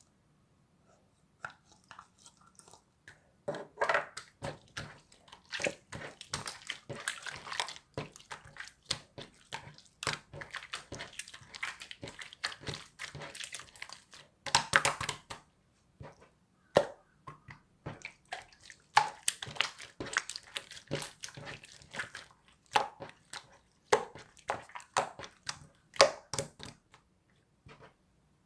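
Slime being pressed, squished and stretched by hand, making dense runs of quick crackling clicks and little pops, broken by a few short pauses.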